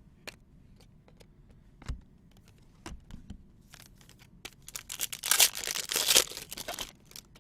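A trading card pack wrapper being torn open and crinkled, crackling loudest for about a second and a half midway through, after a few light taps and clicks.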